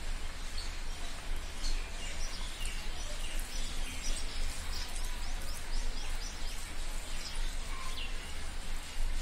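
Small birds chirping in the background, with a quick trill of falling notes about halfway through, over a steady low hum and hiss.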